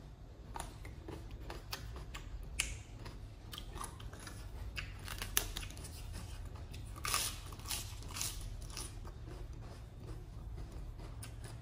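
Close-up chewing of a mouthful of green papaya salad: irregular crisp crunches, a few louder ones, over a low steady hum.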